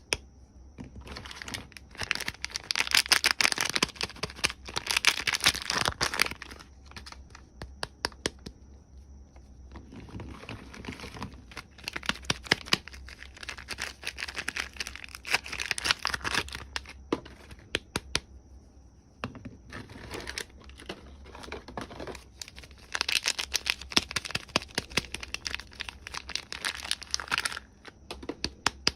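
Soap bars being unwrapped by hand: the packaging crinkles and tears in three long spells, with many sharp clicks in between.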